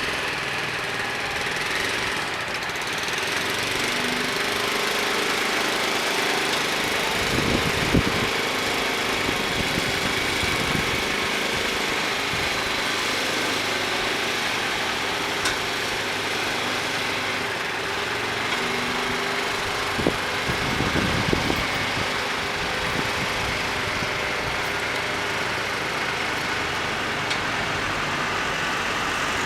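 Heavy truck's diesel engine running steadily at low speed, with a few short knocks: one about a quarter of the way in and a small cluster about two-thirds through.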